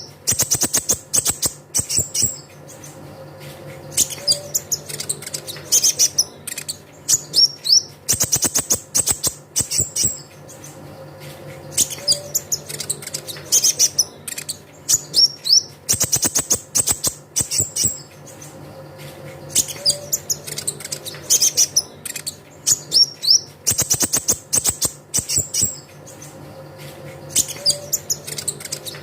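Olive-backed sunbird (kolibri ninja) song: bursts of rapid, high-pitched chirping trills and twitters. It is a lure recording whose phrase sequence repeats about every eight seconds, with a faint steady hum underneath.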